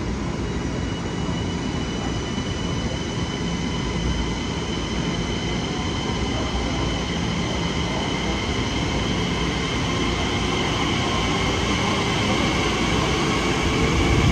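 Long Island Rail Road electric multiple-unit train moving along the platform: a continuous rumble with a steady high-pitched whine that grows gradually louder toward the end.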